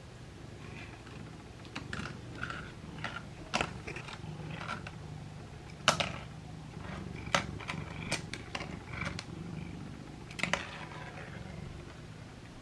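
A cat purring steadily, with scattered sharp clicks and taps over the purr; the loudest comes about six seconds in.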